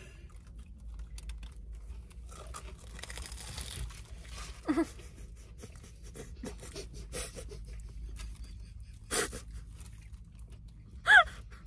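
Close-up eating sounds: chewing and crunching of a fried, batter-coated mozzarella corn dog with breathing through the nose, over a low steady hum. A brief voiced "mm" comes about a third of the way in, and a short high-pitched vocal sound near the end is the loudest thing.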